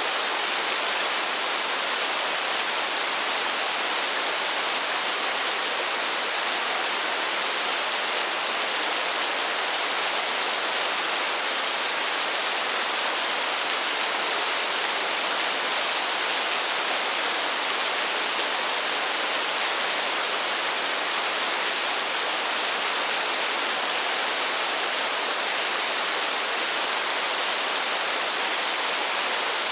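Steady rain falling: an even, unbroken hiss with no single drops, thunder or other sounds standing out.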